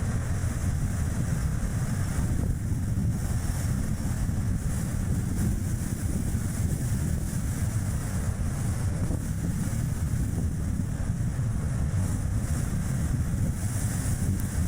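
Strong wind buffeting the microphone as a steady low rumble, mixed with tyre and road noise from a Chevrolet Spark light car driving.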